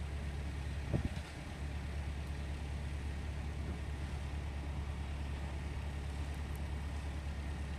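A vehicle engine idling steadily, a low even hum, with one short knock about a second in.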